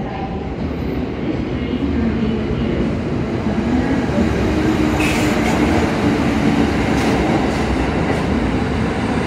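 Kintetsu 30000 series Vista EX double-decker limited express pulling into an underground platform: a steady rumble of wheels on rail that grows a little louder after a couple of seconds, with a short hiss about five seconds in.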